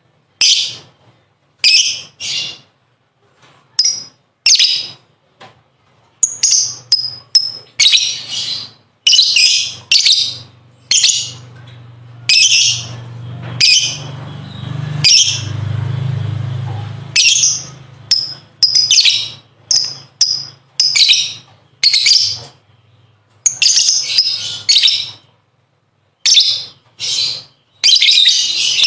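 Lovebird chattering in many short, shrill bursts, some coming in quick runs, as in its ngekek song. A low hum runs under it for a few seconds in the middle.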